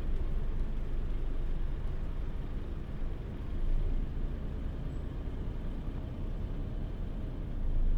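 Mitsubishi Fuso Aero Star (PJ-MP35JM) city bus's diesel engine and running noise heard from inside the cabin: a steady low rumble with a slight swell about three and a half seconds in.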